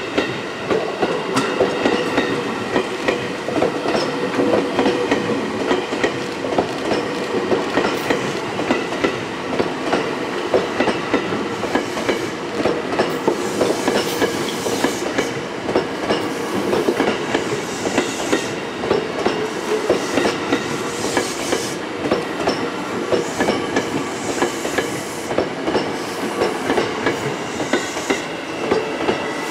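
Seibu 9000-series electric commuter train, set 9108F, rolling slowly past close by as it pulls out of a siding, its wheels clicking in a steady run over rail joints and points.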